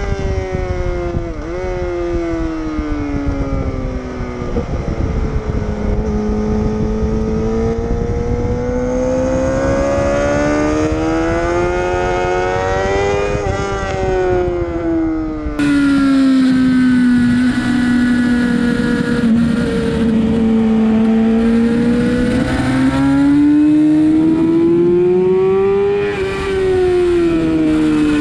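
Sportbike engine on track, its pitch climbing under acceleration and falling off into corners several times over, with wind rushing over the microphone that eases abruptly about halfway through.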